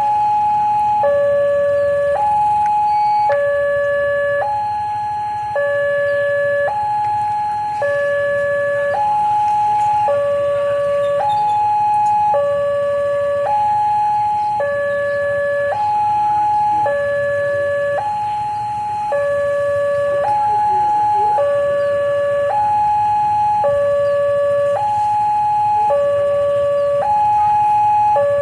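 Railway level-crossing warning alarm sounding a steady two-tone signal, a higher and a lower tone alternating about once a second, the warning that a train is approaching.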